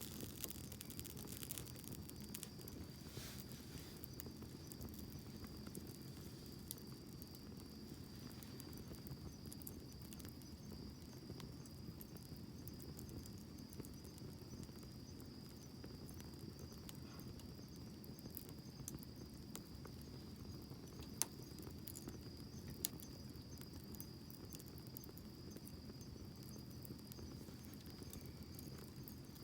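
Bonfire crackling softly, with scattered small pops and two sharper pops about 21 and 23 seconds in, under a steady high-pitched insect trill.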